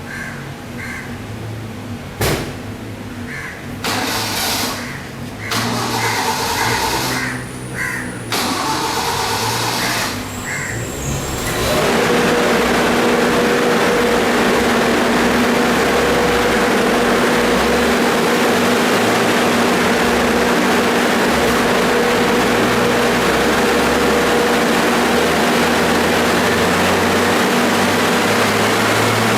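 Car on a chassis dynamometer: uneven engine and machine noise with a few knocks and short high blips, then about twelve seconds in a loud, steady drone with a constant hum sets in and holds.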